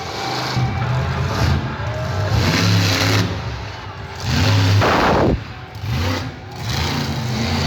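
Monster truck engine revving in pulses, with arena music underneath and a loud swell about five seconds in.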